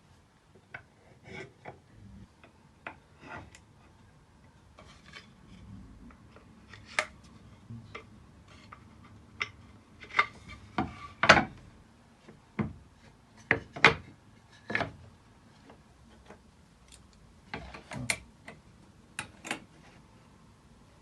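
Irregular knocks, clicks and light scrapes of wooden parts and hand tools being handled on a workbench. The loudest knock comes about eleven seconds in.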